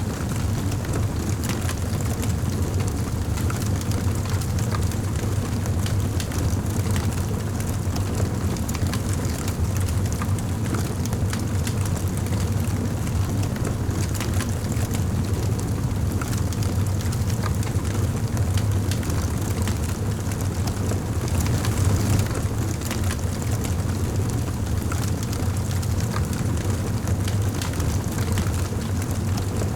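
Wood fire in a fireplace crackling, with frequent small pops and snaps over a steady low rumble of the flames.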